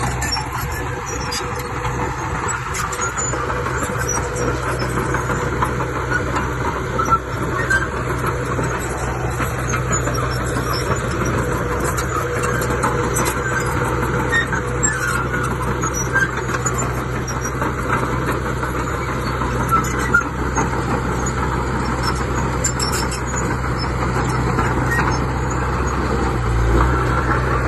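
Diesel engine of heavy earthmoving machinery running steadily, with scattered light clanks and clicks. The engine note shifts near the end.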